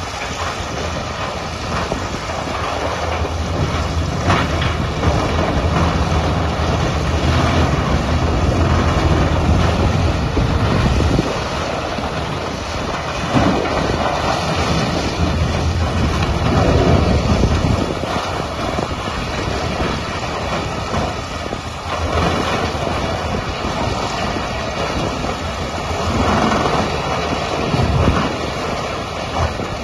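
Self-propelled crawler tub grinder running under load: a steady low engine drone beneath a broad grinding rush that swells and eases every few seconds.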